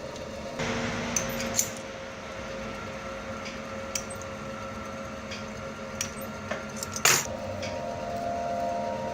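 Light metallic clicks and clinks from tools and small metal parts being handled, over a steady mechanical hum, with one louder clank about seven seconds in.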